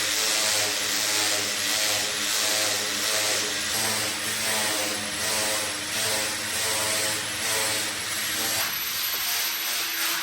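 A power tool's motor running steadily, with a hiss over its hum; the lower hum drops away near the end.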